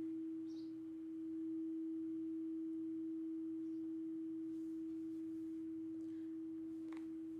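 Singing bowl ringing with one steady, sustained tone that swells slightly about a second and a half in.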